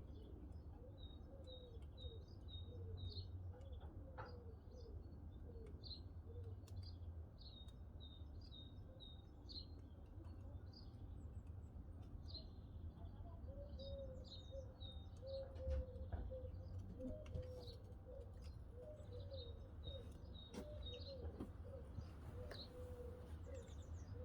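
Small birds chirping in quick repeated high notes, with a lower wavering bird call running through much of it, over a steady low rumble. A few sharp crackles from burning wood in a cast iron wood stove stand out, the loudest about a quarter of the way through and again later on.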